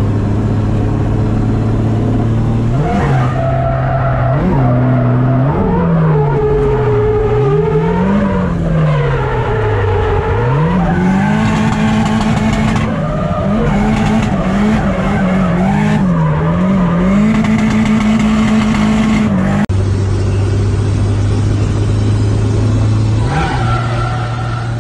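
Drift car's engine heard from inside the cabin during a drift run: it holds a steady note for the first few seconds, then the revs rise and fall again and again, and for a long stretch they bounce high and fast, with tyre squeal. Near the end the engine settles to a steady note again and then rises once more.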